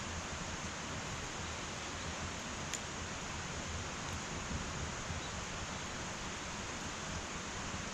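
Wood fire burning in an irori hearth: a steady hiss with a single small crackle about three seconds in.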